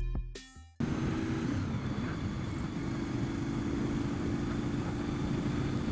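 Intro music fades out within the first second, then a Honda VFR750 V4 motorcycle runs steadily, heard as a low rumble with hiss through a helmet-mounted Bluetooth microphone.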